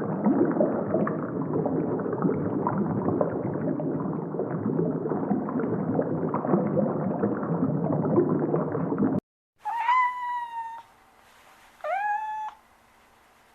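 A dense, muffled clamour of mixed noise that cuts off about two-thirds of the way in. Then a domestic cat meows twice, two seconds apart; the second meow rises in pitch at its start.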